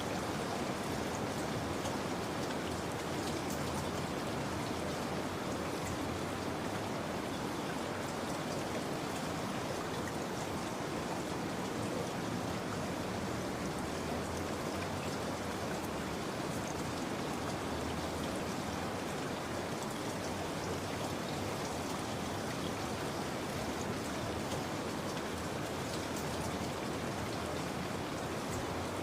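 Steady rain falling, an even hiss with scattered small drop ticks that stays unchanged throughout.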